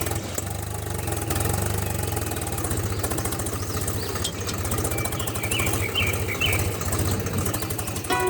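A DIY mini tractor's small engine running steadily with a rapid, even firing rhythm. Birds chirp briefly about two-thirds of the way through.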